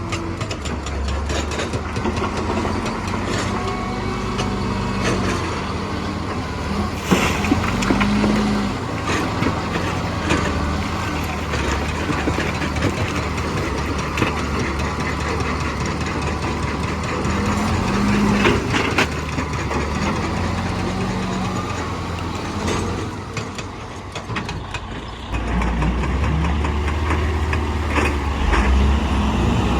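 Heavy diesel earthmoving machinery running, its engine revving up about every ten seconds, with scattered knocks and clatters.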